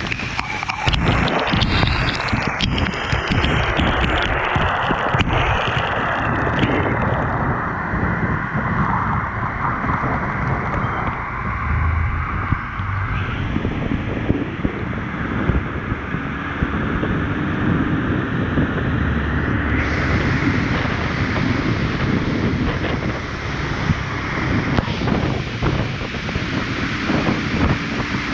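Steady wind noise on the microphone of a motorcycle riding in the rain, with road and vehicle noise rumbling beneath.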